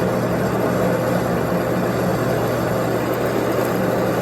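A machine running steadily with a constant low hum and no change in speed.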